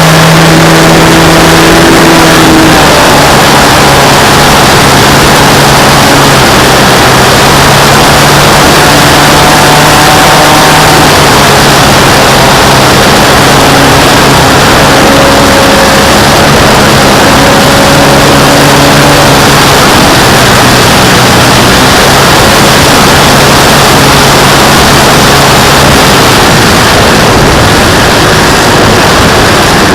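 RC model airplane's motor and propeller heard up close from the airframe in flight: a steady drone whose pitch drifts up and down a little as the throttle changes, over a heavy rush of wind across the microphone.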